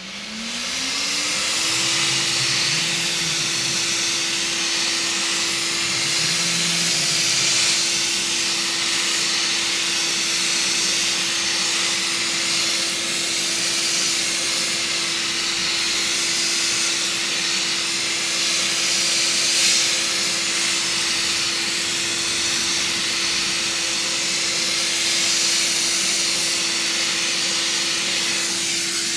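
Electric hot-air gun switched on: its fan motor spins up over the first second or so, then runs at a steady pitch under a continuous rush of air.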